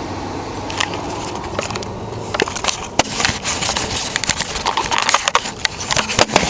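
Ford 6.0L V8 Powerstroke turbo diesel running, heard from under the hood: a steady low drone with irregular sharp clicks and knocks that grow more frequent about halfway through.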